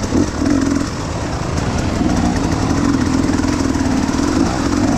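Enduro dirt bike engine running under throttle. It eases off about a second in, then picks back up and holds steady.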